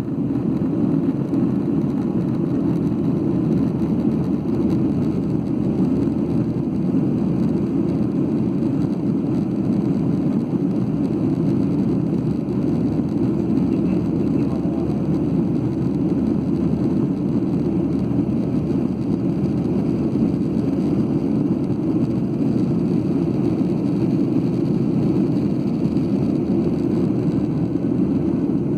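Steady cabin roar of a Boeing 737-8 climbing after takeoff: the CFM LEAP-1B engines and the airflow over the fuselage, heard from inside the passenger cabin as an even, deep rumble with no change.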